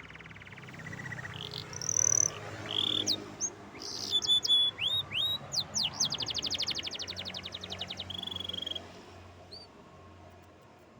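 Domestic canary singing: fast rattling trills, held whistled notes and quick upward-sweeping chirps, stopping about nine seconds in.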